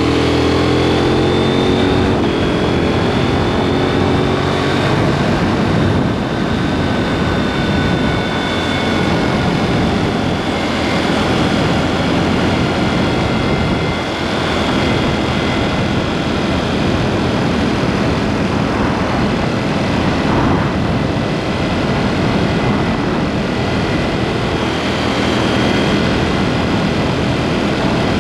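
KTM 790 Duke's parallel-twin engine running under way through an aftermarket SpeedPro Cobra SPX exhaust, its pitch falling in the first second or two. After that it runs steadily, mixed with rushing wind and road noise.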